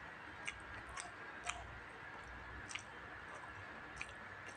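Close-miked eating sounds of a person chewing food by mouth, with about five sharp, wet mouth clicks and lip smacks at irregular intervals.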